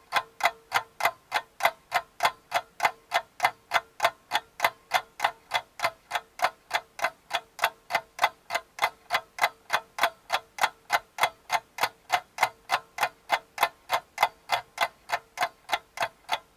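Clock ticking fast and evenly, a few sharp ticks a second without a break, with a faint steady hum underneath that fades out near the end.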